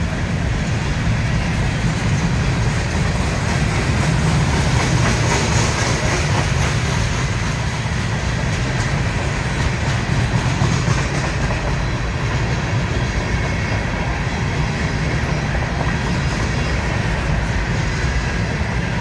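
A long train's cars rolling steadily past at speed, wheels clattering over the rail joints with a constant low rumble.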